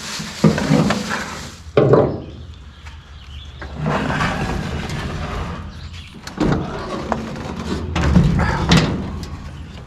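Thumps, clunks and scraping as a push mower is lifted and lowered down off a truck, with several sharp knocks and a longer scrape in the middle.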